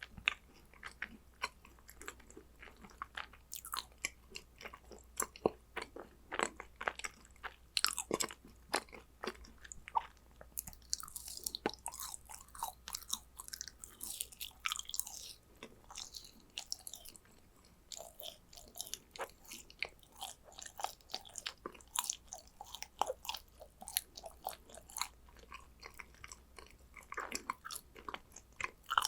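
Close-miked chewing of yakgwa, a dense, sticky Korean honey-fried pastry: irregular wet mouth clicks and smacks, with a stretch of higher crackly sound around the middle.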